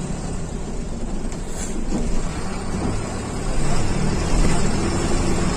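Diesel engine of a Mercedes-Benz OF 1721 bus running steadily, growing louder about three and a half seconds in.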